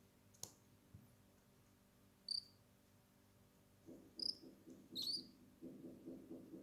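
Cockatiel giving three short, high chirps a second or two apart, with soft, rapid low pulsing in between and near the end.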